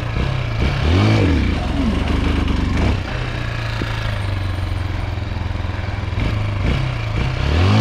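Dirt bike engine running, revved up and dropping back twice, once about a second in and again near the end, with steady running in between.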